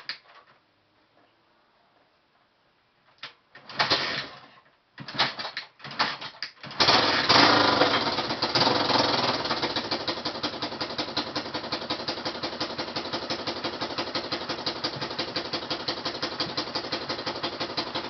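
Honda XL185S single-cylinder four-stroke engine being kicked over, with a few short bursts, then catching about seven seconds in and settling into a steady, evenly pulsing idle through a SuperTrapp aftermarket exhaust. The idle is pretty quiet.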